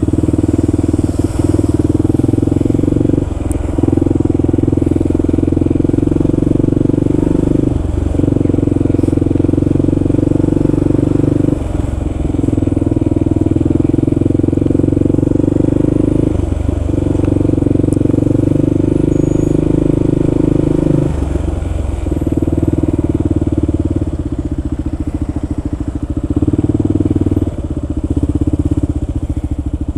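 Kawasaki KLR650's single-cylinder four-stroke engine running steadily while ridden slowly. Its note dips briefly about five times, then runs a little lower and less evenly near the end.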